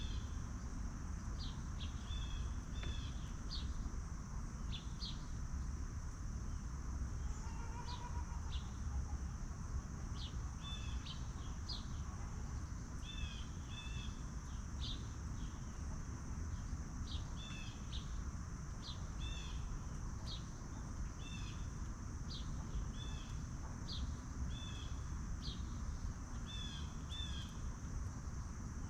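Birds chirping over and over, short high calls about once a second, over a steady high insect drone and a low rumble of outdoor noise.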